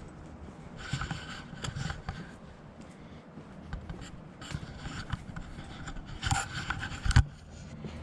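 Irregular rustling and scraping handling noise, ending in one sharp thump a little after seven seconds in.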